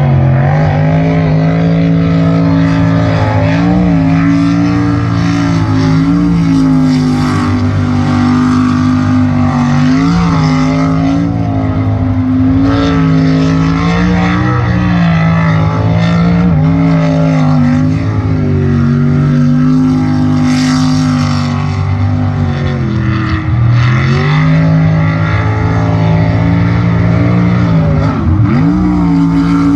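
Jet sprint boat engine running hard at high revs, its pitch wavering up and down with the throttle, then dropping sharply and climbing back twice near the end.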